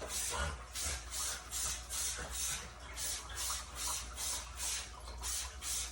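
Quick, even hissing strokes, about two and a half a second, as the coils of a dehumidifier are worked over during cleaning.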